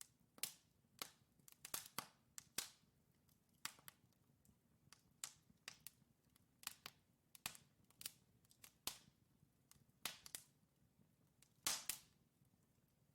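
Wood fire in a fireplace crackling: irregular sharp pops and snaps from the burning logs, a few louder ones, the loudest near the end, over a faint low rumble.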